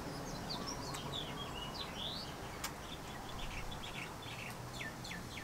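Small birds chirping: a run of short, high chirps and quick falling calls over a steady low hiss, with one sharp click about halfway through.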